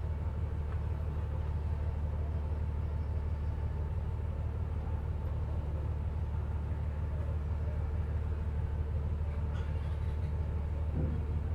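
Interior of a moving passenger bus: a steady low engine and road rumble with a faint constant whine above it.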